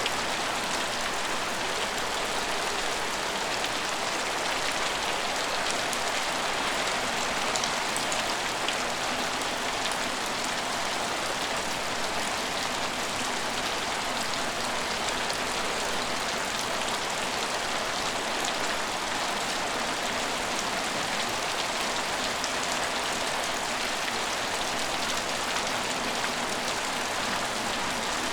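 Steady rain falling: an even hiss of rain with faint scattered drop ticks, unchanging throughout.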